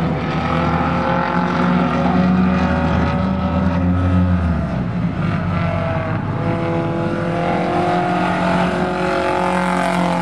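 Race car engines running steadily, their note changing about halfway through.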